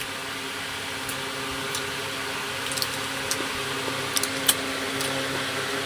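Steady hum of a small electric fan running, with a few faint sharp ticks about three to four and a half seconds in.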